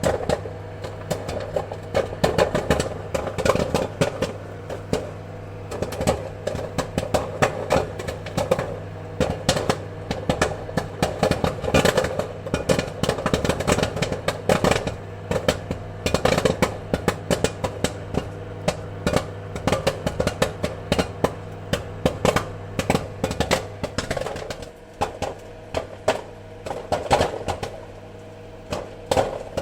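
Popcorn kernels popping rapidly: many sharp, irregular pops in quick succession over a steady hum.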